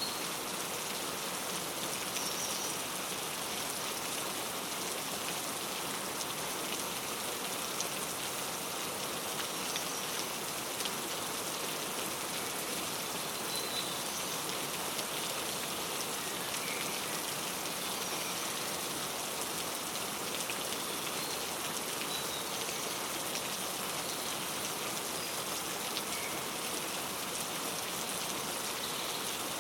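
Steady rain falling, with short faint bird chirps breaking through every few seconds.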